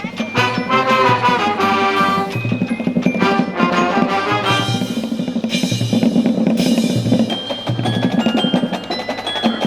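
High school marching band playing, with snare and bass drums driving a steady beat under a pitched melody from the band.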